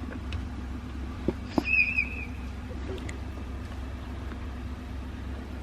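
Steady low mechanical hum, like an engine or motor running, with two light knocks and a short high squeak about two seconds in.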